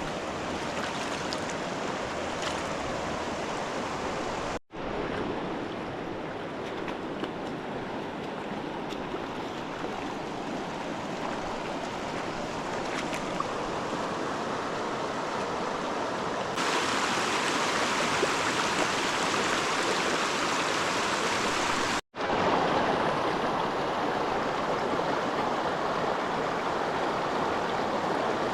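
River water rushing steadily, with a louder, brighter stretch from a little past halfway. It cuts out abruptly twice.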